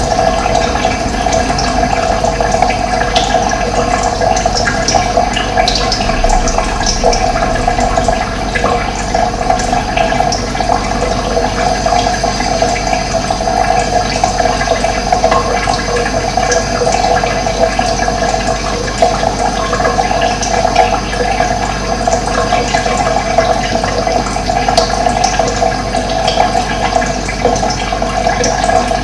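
Running water flowing steadily, an even rushing with no breaks.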